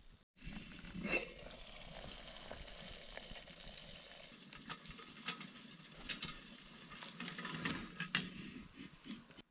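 Steak and onions sizzling in a fry pan over a campfire, a steady hiss with scattered clicks and scrapes of a utensil against the pan.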